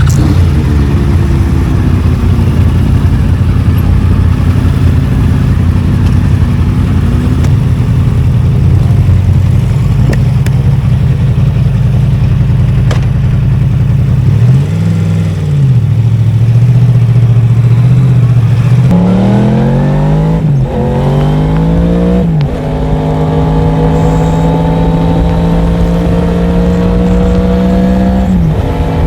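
Yamaha MT-10's crossplane inline-four engine running at low revs, with a quick blip of the throttle about halfway. It then accelerates hard, revs climbing and dropping sharply at each quick upshift, and holds a steady higher pitch before easing off near the end.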